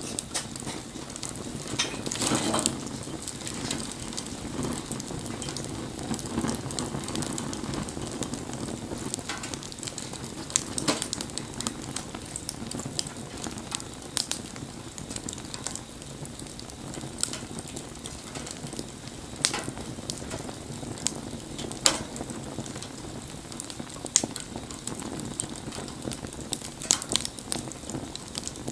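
Wood campfire burning, crackling steadily, with frequent sharp pops and a few louder snaps scattered through.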